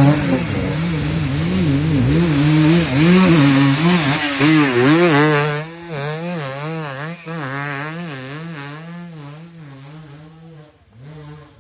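Motocross bike engine revving up and down over and over as the rider works the throttle. It fades steadily as the bike moves away.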